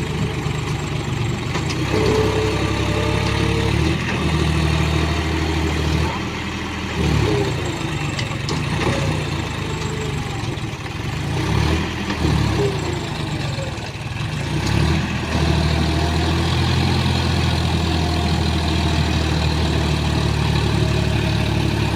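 Tractor diesel engine running under changing throttle, its speed stepping up and down several times.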